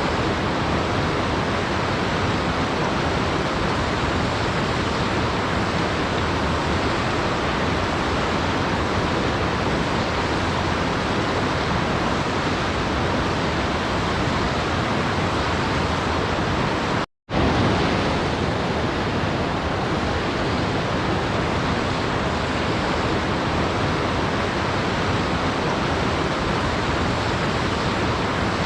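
Waterfall noise, a steady even rush of falling water. About two-thirds of the way through it cuts out to silence for a fraction of a second, then resumes.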